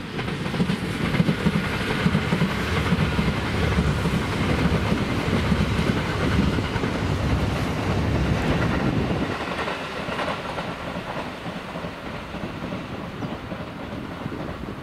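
Electric train passing on the Tobu Skytree Line, loud for about the first nine seconds and then fading as it moves away.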